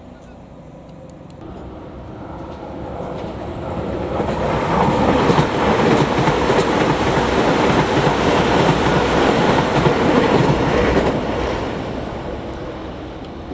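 Electric commuter train passing on the Chikuhi Line: it comes closer, runs loudly past with wheels clicking over the rail joints for about seven seconds, then fades away.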